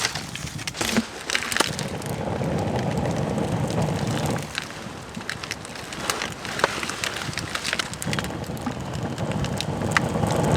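Wood fire crackling in a clay-and-rock fireplace: many sharp pops and snaps over a steady rushing noise, the fire drawing well through its chimney.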